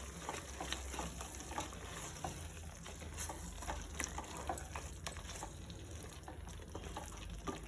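Chicken curry gravy sizzling faintly in a pan, with scattered light crackles and small clicks, over a steady low hum.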